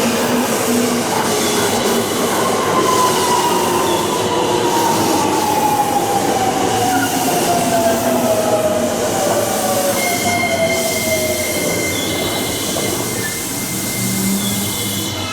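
Electric train running along the line through the station, its motor whine falling slowly in pitch over several seconds. In the last few seconds a thin, steady, high squeal rises from the wheels.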